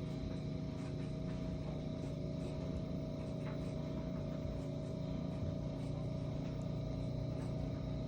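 Steady mechanical hum with a constant mid-pitched tone over a low drone, unchanging throughout, as from a running motor or fan.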